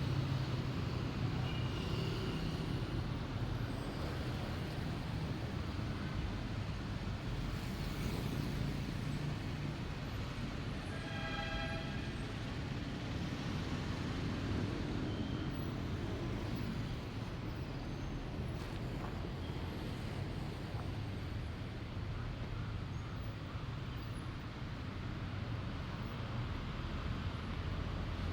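Steady road traffic rumble of passing cars, with one horn toot lasting about a second partway through.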